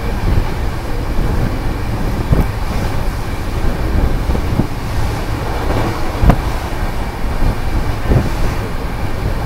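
Chair-car express train running at about 130 km/h: a steady rumble of wheels on track, with a few sharp knocks about two seconds apart.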